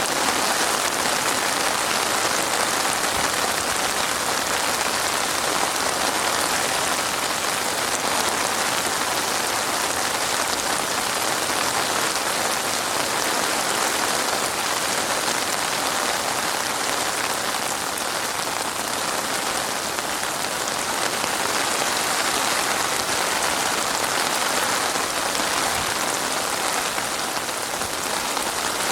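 Heavy rain falling steadily, a dense hiss of many drops hitting a surface, with no let-up or change in strength.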